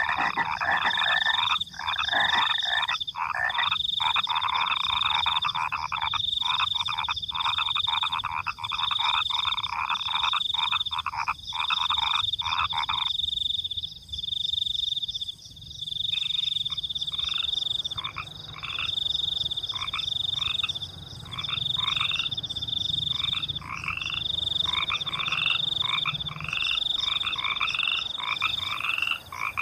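Frogs croaking in rapid rattling runs, with a high pulsing cricket trill behind them. About halfway the croaking stops for a few seconds, then comes back as shorter, more spaced calls.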